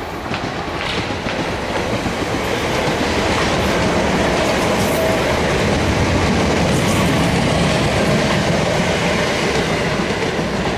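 South Western Railway Class 455 electric multiple unit running past, its wheels clattering over the rail joints. The sound builds over the first couple of seconds and then stays loud and steady.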